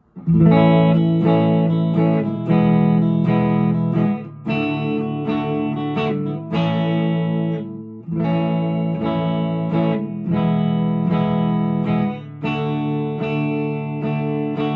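PRS SE McCarty 594 electric guitar on its middle pickup position (both humbuckers) through a VOX AC10 valve amp: picked chords and arpeggiated notes, in phrases that start again about every four seconds, with the last chord left ringing near the end.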